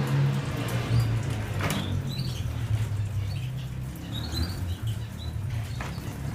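Caged canaries giving a few short, high chirps with brief wing-flutter rustles, over a steady low hum.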